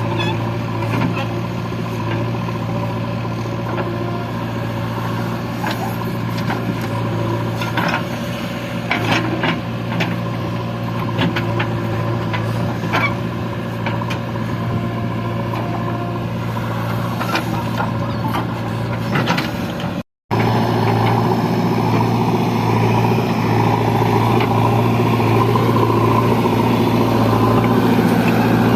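Heavy diesel machinery engine running steadily with a low hum, with scattered knocks and clanks over the first part. The sound drops out for an instant about twenty seconds in, then the engine carries on.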